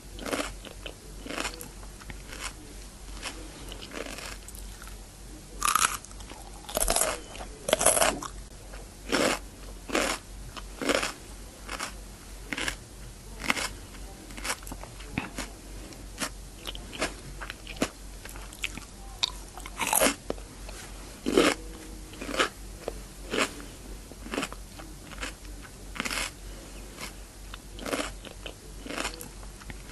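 Someone biting and chewing raw cucumber close to the microphone: a run of crisp, wet crunches about one to two a second, with a few louder bites now and then.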